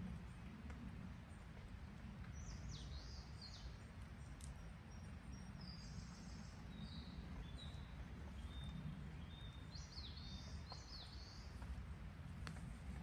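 A songbird singing two short warbling phrases of sliding notes, about three seconds in and again about ten seconds in, with thin held notes between them. Under it runs a steady low outdoor rumble, with a couple of faint sharp ticks.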